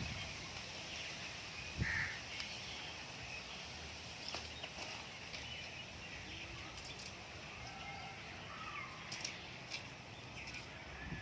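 Birds calling in a garden: one louder call about two seconds in, then scattered short, faint high chirps over a steady outdoor background.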